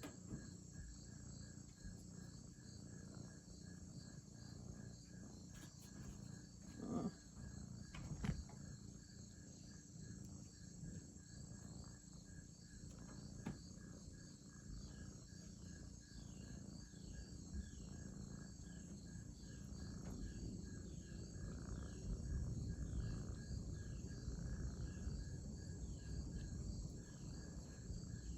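A chorus of crickets and other night insects chirping in steady, evenly pulsing trills. A low rumble builds up under it over the last several seconds.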